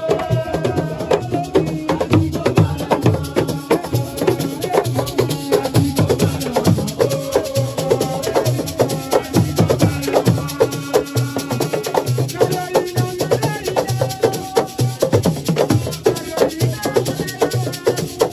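Live Senegalese assiko music: a sung lead voice over fast, dense hand-drum strokes and shaken rattles.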